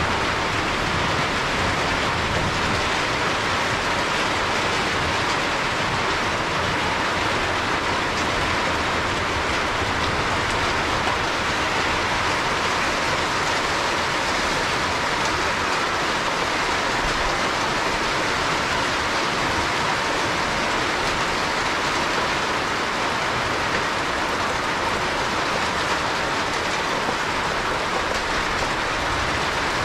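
Steady heavy rainfall, an even hiss of rain that neither builds nor eases.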